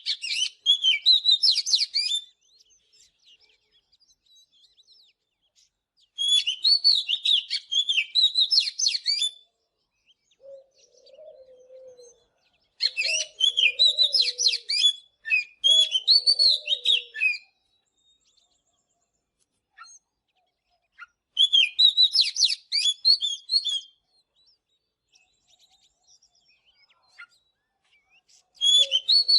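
Oriental magpie-robin singing: bouts of rapid, varied whistles and chirps lasting about three seconds each, with gaps of a few seconds between them. A low cooing sounds beneath the song in the middle and again near the end.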